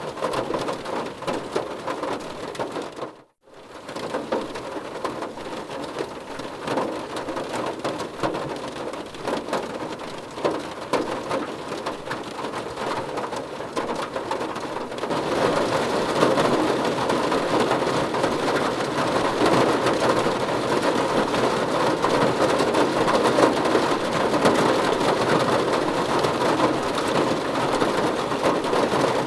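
Heavy rain falling, a dense hiss full of fine drop patters. It cuts out for a moment about three seconds in, then comes back, and gets louder and heavier about halfway through.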